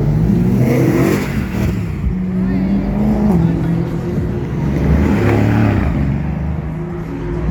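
Car engine revved hard twice, about a second in and again about five seconds in, over a steady low running sound.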